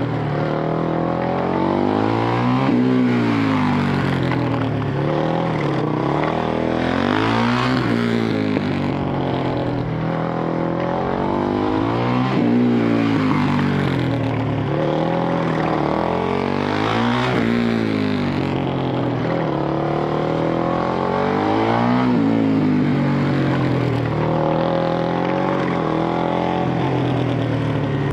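Single-cylinder four-stroke engine of a Honda CRF450X-based track motorcycle ridden hard, the revs climbing and dropping again and again through gearshifts and corners.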